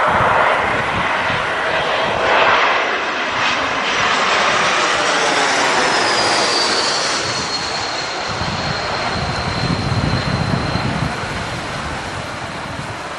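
Jet airliner passing low overhead on final approach: loud engine noise that slowly fades, with a high whine that falls in pitch as the jet goes over and then holds steady. Wind gusts rumble on the microphone near the end.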